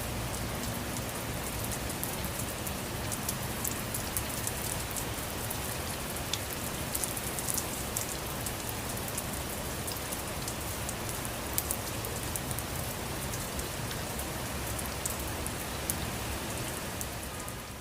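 Steady rain falling on a surface, with many separate drops ticking sharply through it. It fades out at the very end.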